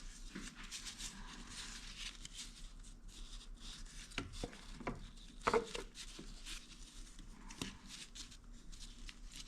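Light clicks, taps and rustles of a metal valve cover being handled and set loosely in place on a motorcycle V4 engine's rear cylinder head, with a sharper knock about five and a half seconds in.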